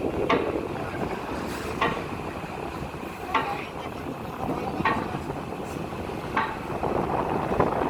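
Train running along the track: a steady rumble with a sharp clack about every second and a half.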